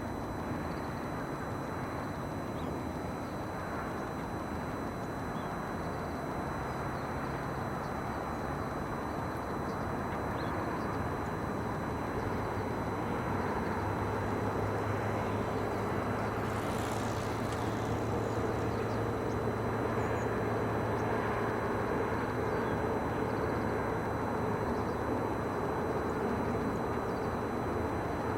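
Steady outdoor background rumble of distant traffic, with a low engine drone joining about halfway and growing slightly louder.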